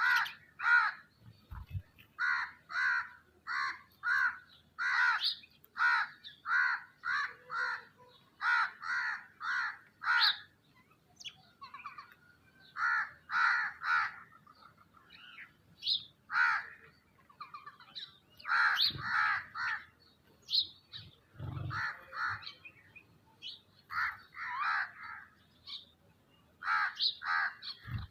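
Crows cawing: runs of short, harsh caws, about two a second, broken by brief pauses.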